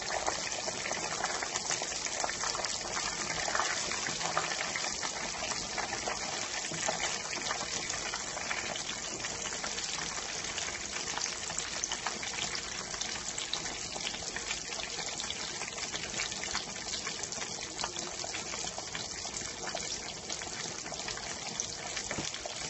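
Breaded pork chop for tonkatsu frying in hot oil in a pan: a steady sizzle with fine crackling throughout.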